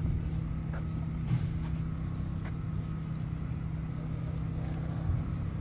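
Steady low hum of a motor vehicle engine running, with a few faint ticks over it.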